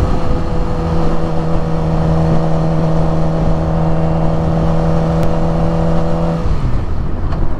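Suzuki GSX-R600 inline-four engine at a steady cruising pitch under a heavy rush of wind on the helmet microphone; about six seconds in the engine note drops as the throttle rolls off.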